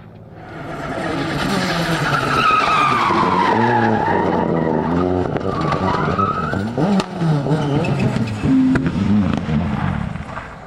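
Rally car driven hard past, its engine revving and dropping through several gear changes, with a whine that falls in pitch and then rises again, over tyre noise. The sound builds quickly in the first second, and there are a few sharp cracks in the second half.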